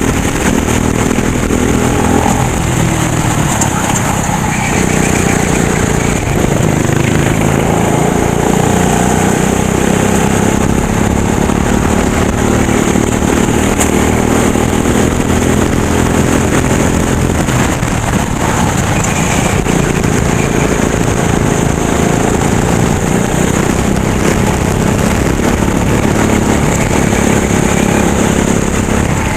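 Racing kart engine running hard, its pitch rising and falling again and again as it accelerates out of corners and drops back for braking.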